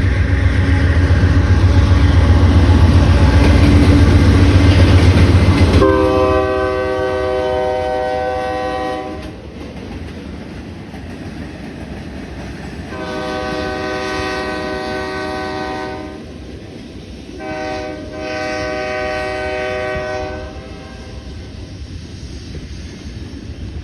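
Diesel freight locomotives passing close with a heavy low rumble. Then a multi-note air horn sounds the grade-crossing signal: two long blasts, one short, one long.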